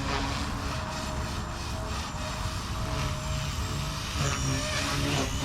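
Blade Fusion 180 Smart micro RC helicopter in flight: a steady whine from its brushless electric motor and spinning rotor, over a low rumbling noise.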